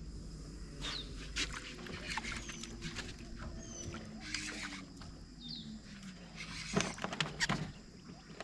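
Scattered knocks and clicks of handling on a boat over a faint low hum, with a few short high chirps.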